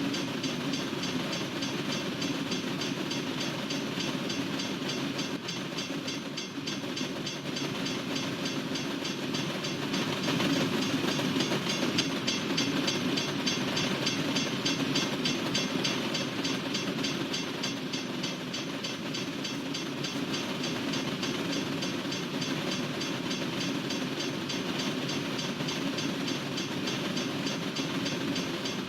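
Freight train cars rolling past: a steady rumble and rattle of wheels on the rails, a little louder about ten seconds in.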